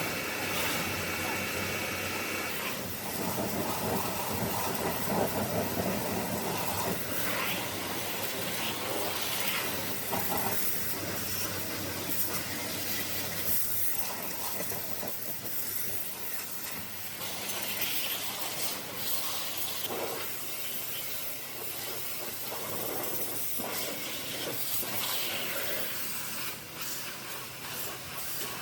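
High-pressure car washer spraying, a steady hiss of water jetting under pressure that swells and fades as the jet moves.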